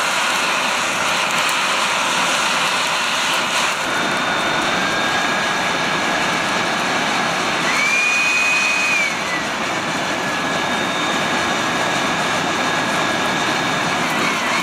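Battery-powered cordless blower running steadily: a rush of air under a high motor whine. About eight seconds in the whine steps up in pitch for about a second, then drops back.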